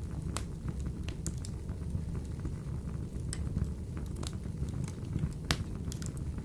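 Wood fire burning in a wood-burning stove: a steady low rumble of the flames, with sharp crackles and pops scattered irregularly through it. The loudest pop comes about five and a half seconds in.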